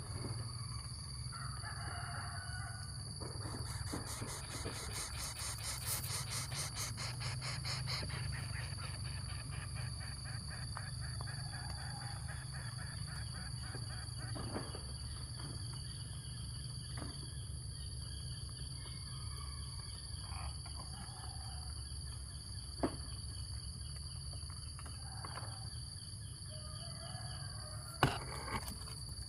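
Steady high-pitched chorus of crickets or similar insects, with a low rumble underneath and a few faint calls. Sharp clicks stand out twice near the end.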